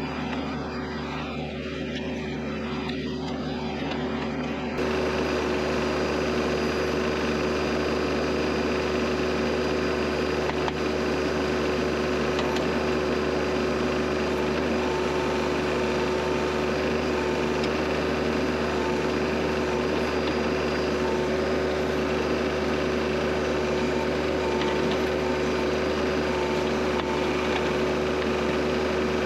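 Kioti CS2520S subcompact tractor's diesel engine running steadily while it works the backhoe; it gets louder about five seconds in.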